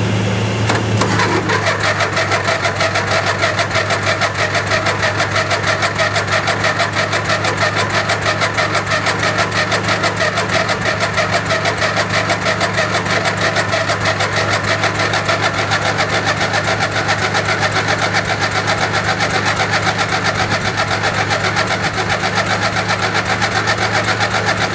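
Craftsman lawn tractor's starter motor cranking the engine without it catching, a fast even chugging of about four to five beats a second that starts about a second in and keeps on. A steady low hum runs underneath.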